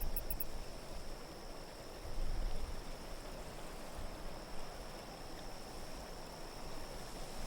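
Soft, steady wind noise of a winter-night ambience soundscape, a low rushing hiss that swells briefly about two seconds in, with a faint steady high tone above it.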